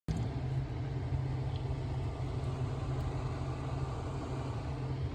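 Car engine idling steadily, cutting in abruptly out of silence.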